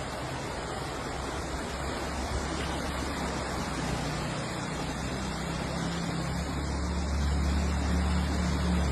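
A motor vehicle's engine hum comes in a few seconds in and grows louder near the end as it approaches, over a steady rushing noise.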